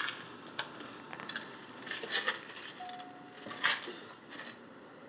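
Seibu 2000 series commuter train running, heard from inside the car: a steady running noise with irregular clicks and rattles, and a brief thin steady whine a little before the middle of the second half.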